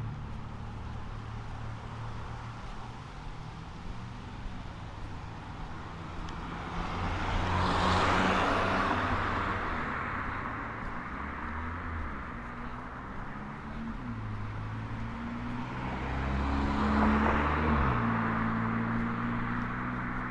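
Road traffic: a steady low engine hum, with two vehicles passing by, the first about eight seconds in and the second about seventeen seconds in, each swelling and fading over a few seconds.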